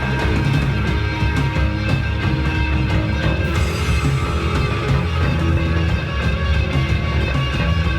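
Live rock band playing an instrumental passage: heavy bass, held guitar or keyboard tones and drums, steady and loud with no singing.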